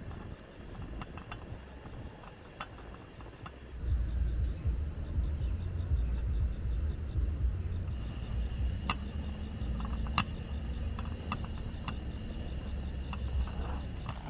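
Insects chirring steadily in a high, fine-pulsed drone, with scattered sharp ticks and a low rumble that grows louder about four seconds in.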